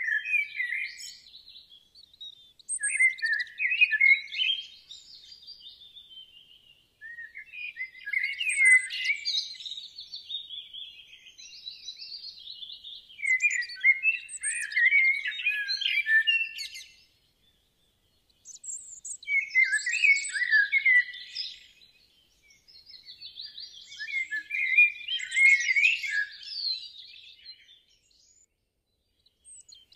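Bird song: phrases of quick twittering chirps lasting a few seconds each, with short pauses between them.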